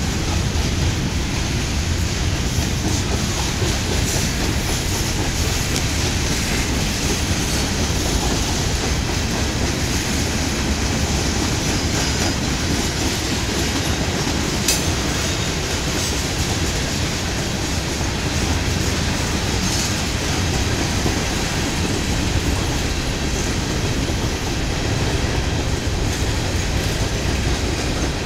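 Cars of a Norfolk Southern manifest freight train, covered hoppers, rolling steadily past: a constant rumble of steel wheels on the rails, with a faint click about halfway through.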